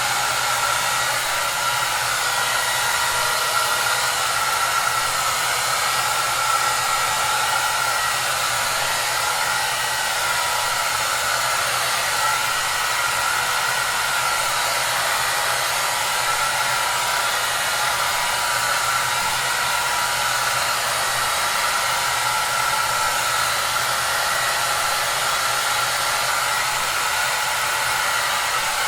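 Hair dryer running steadily: an even rush of blown air with a steady whine from its motor and fan.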